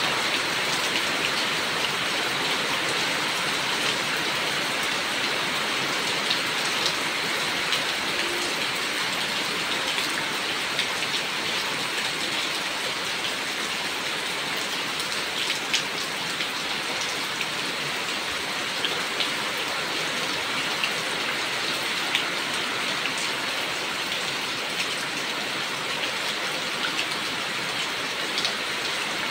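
Steady rain falling, with scattered sharp drip clicks landing close by.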